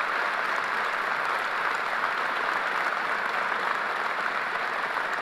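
Crowd applauding steadily: sustained clapping from a large audience.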